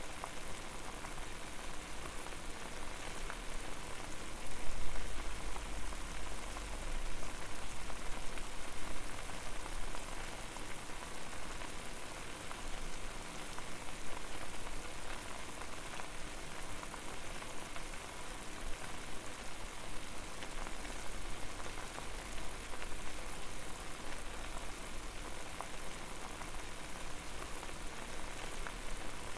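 Water at a rolling boil over a fire: dense, steady bubbling and popping, with a low rumble underneath that swells about five seconds in.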